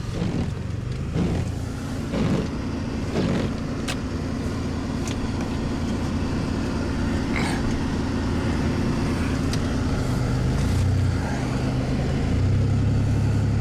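Four-wheel-drive truck's engine running steadily as it drives, with several short knocks in the first few seconds. The engine grows louder from about ten seconds in.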